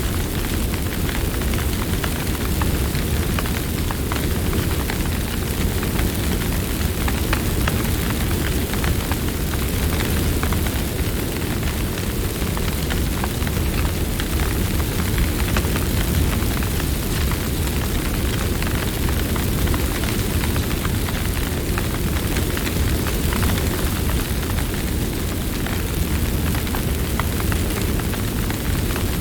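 Campfire burning steadily: a low rumble of flame under a constant scatter of small crackles and pops from the burning wood.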